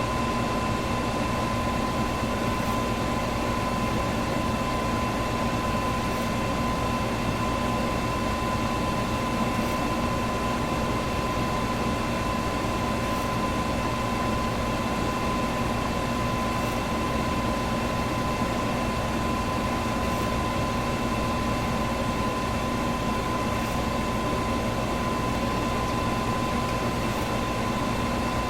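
Electric fan running steadily: an even rush of moving air with a constant motor hum.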